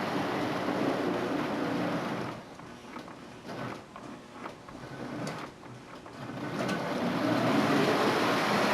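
O-gauge model steam locomotive and its string of freight cars running on three-rail track with a steady motor hum, stopping about two seconds in, a few clicks while it stands, then starting up again and building speed near the end.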